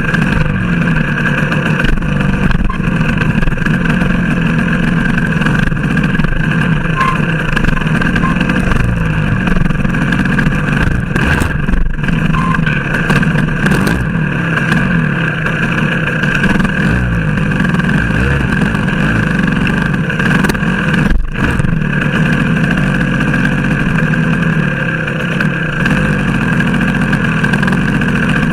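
Motorcycle engine running steadily under way, with brief dips in level about twelve and twenty-one seconds in.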